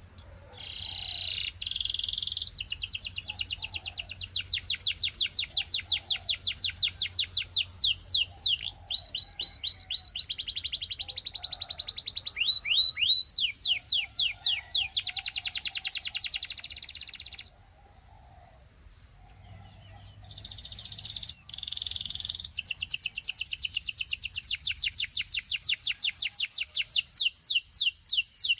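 Russian singing canary in full song: long, rapid trills of repeated sweeping notes, phrase after phrase at changing speeds, broken by a pause of about three seconds past the middle before the trilling resumes.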